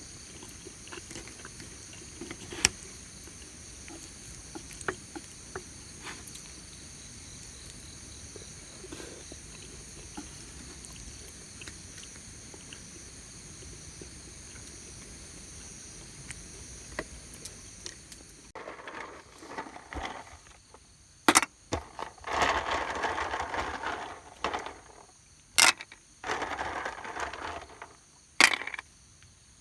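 Crickets trilling steadily with scattered sharp snaps. After an abrupt change about two-thirds of the way in, the trilling drops out and a few short bursts of scraping or rustling follow, with loud sharp clicks among them.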